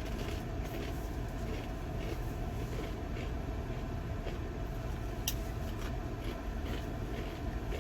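Steady low rumble of a truck heard from inside the cab, with a sharp click about five seconds in.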